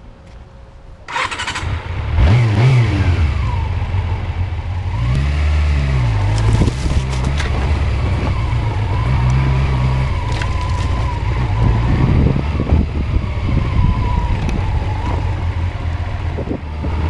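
Honda CB400 motorcycle engine starting about a second in, revving up briefly, then running at idle with a few short blips of the throttle.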